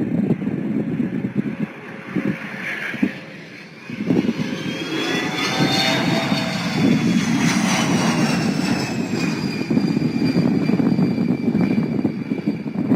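Jet aircraft engines spooling up: a heavy rumble with a whine that rises in pitch about four seconds in, then slowly sinks as the jet passes, typical of thrust being applied for a go-around.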